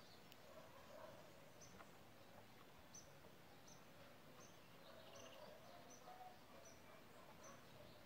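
Faint bird chirping: short high chirps repeated about every 0.7 seconds, coming mostly in the second half, over quiet outdoor background.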